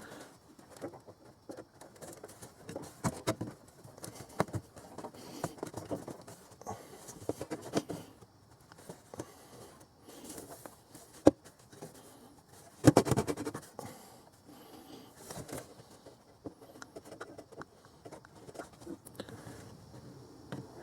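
Hand-work noises of a lower radiator hose being adjusted into place: scattered scrapes, rubs and light clicks, with one sharp click about 11 seconds in and a louder clatter a couple of seconds later.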